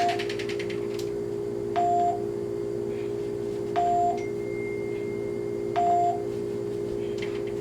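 A short electronic beep repeating about every two seconds, four times, over a steady electrical hum.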